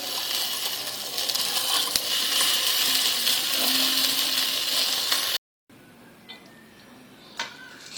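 Chicken frying in butter in a pan, a steady sizzling hiss that cuts off suddenly about five seconds in; after a much quieter stretch, a single sharp clink near the end.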